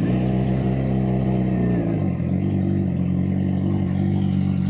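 Suzuki GSX-R 600 inline-four engine idling steadily through an aftermarket M4 exhaust, with no revving.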